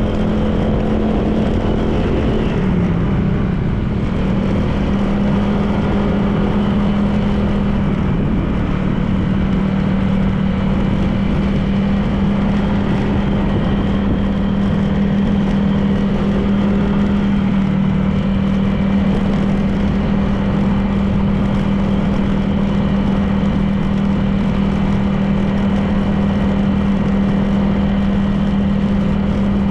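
Honda PCX 160 scooter's single-cylinder engine running at a steady cruising pace, with road noise. The engine note dips briefly about three seconds in, then holds steady.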